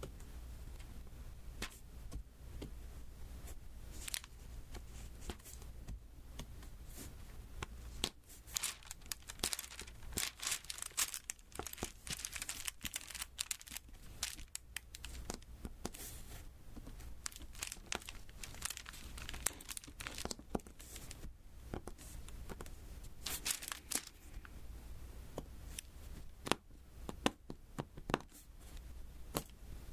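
Close-miked sticky crackling and ticking from diamond painting: resin drills being tapped onto the adhesive canvas. It comes in irregular clusters, thickest in the middle stretch and again briefly toward the end.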